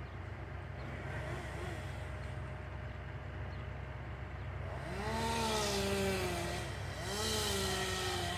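Chainsaw revved up twice, about 5 and 7 seconds in. Each time the pitch jumps, then sags slowly, over a steady low engine hum.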